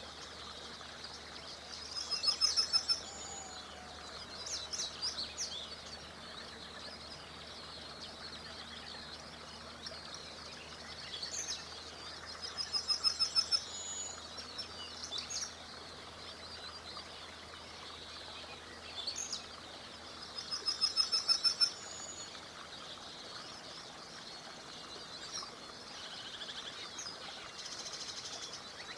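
Songbirds singing over the steady murmur of a small river: one bird repeats the same short, fast, high run of notes three times, about every nine seconds, with scattered chirps from other birds between.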